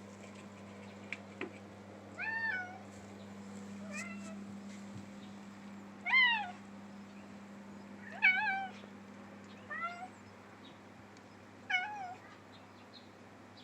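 Orange tabby cat meowing, six meows spaced about two seconds apart, over a steady low hum.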